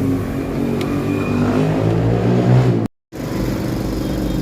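A motor vehicle engine running and revving, its pitch rising, then the sound cuts out abruptly for a moment about three seconds in before a steady engine hum resumes.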